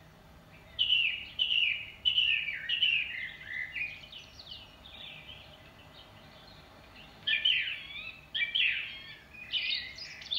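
Songbirds singing, in quick runs of short falling whistled notes: one phrase starts about a second in and lasts a few seconds, and another starts about seven seconds in.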